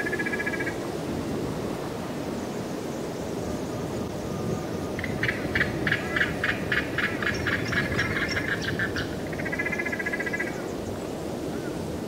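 Bird calls over steady background noise: a short nasal call at the start, a rapid run of about eighteen harsh notes, roughly four to five a second, from about five to nine seconds in, then another short nasal call near ten seconds.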